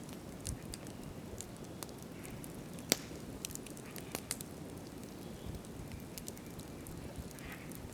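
Wood campfire burning and crackling, with irregular sharp pops and one louder pop about three seconds in.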